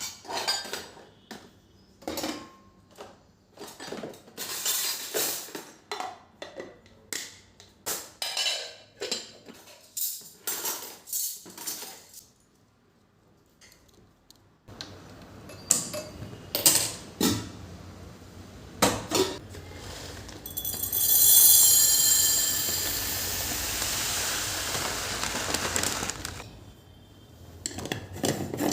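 Kitchen work: dishes and utensils clinking and knocking against each other in quick separate strokes, with a pause near the middle. About two-thirds of the way in, a louder steady rushing noise runs for about five seconds before the clinks return.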